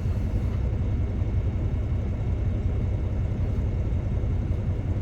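Steady low rumble of an idling diesel engine, heard inside a big-rig truck cab.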